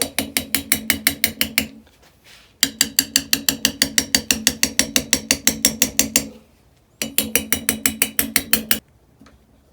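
A small power tool run in three bursts while cleaning carbon off an engine valve, each burst a steady hum with a rapid, regular clicking of about seven a second.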